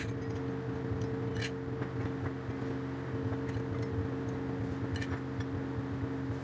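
Steady machine hum, as from a motor or engine running, with a few faint clicks and taps over it.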